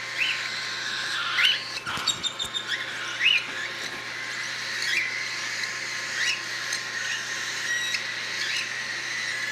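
Young cockatiels chirping: short rising calls repeated every second or so, with a brief clatter of clicks about two seconds in.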